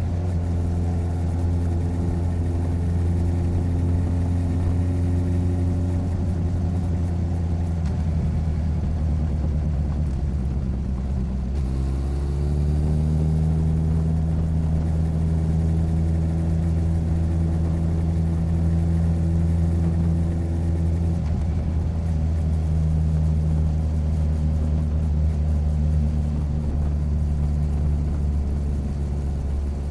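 Motorcycle engine running under way, picked up close by a recorder mounted on the side of the bike. The engine note drops about eight seconds in, climbs again as the bike accelerates a few seconds later, holds steady, and eases slightly about two-thirds of the way through.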